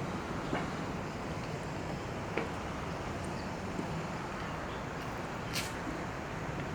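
Steady harbourside background noise: a low mechanical hum of boat and traffic engines under an even hiss. A few faint ticks, and a short sharp hiss about five and a half seconds in.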